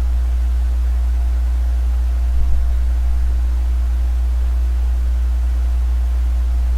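Steady low rumble and hum from riding the trike along the trail, with faint steady whining tones above it. A couple of light clicks come about two and a half seconds in.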